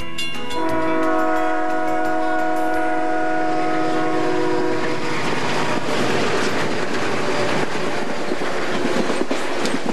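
Diesel freight locomotive air horn sounding a long, steady chord. About five seconds in it gives way to the rumble and rhythmic clatter of a freight train's wheels and cars passing.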